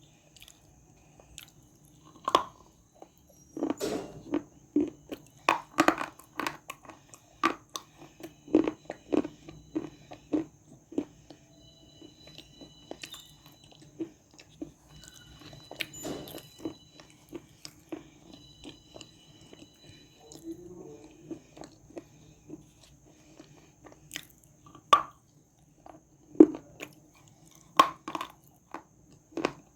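Close-up biting and chewing of dry edible clay: crisp cracks and crunches at irregular intervals, with a few louder bites among the smaller crackles.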